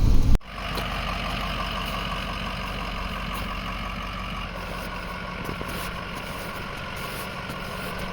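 A truck engine running steadily. A louder low rumble cuts off abruptly about half a second in.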